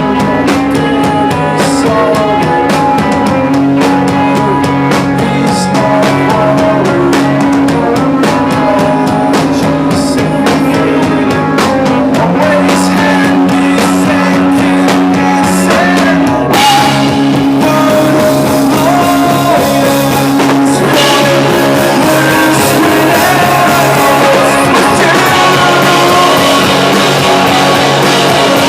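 Loud live rock band playing: drum kit, guitar and bass, with singing. The song changes abruptly about two-thirds of the way through.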